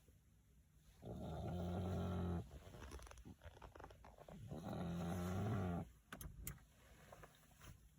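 French bulldog snoring: two long, rasping snores, each about a second and a half, roughly three and a half seconds apart, with quieter breathing between them.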